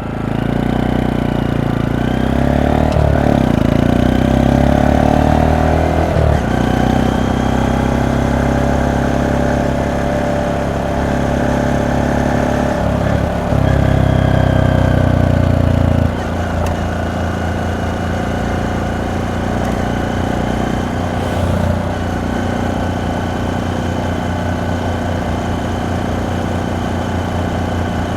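Honda Monkey 125's single-cylinder four-stroke engine and exhaust running, its pitch shifting up and down several times with throttle and gear changes. A little over halfway through it drops to a lower, quieter, steady note.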